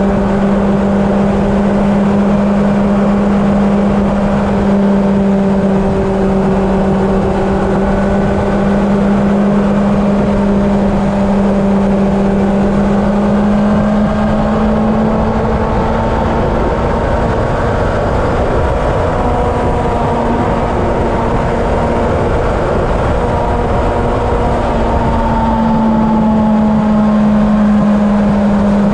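Honda CB750's inline-four engine running steadily at highway cruising speed, with wind rushing over the microphone; the engine note rises slightly near the end.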